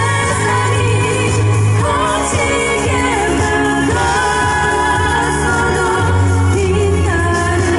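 Singers performing a Korean pop song live with amplified accompaniment, the voices moving over held bass notes.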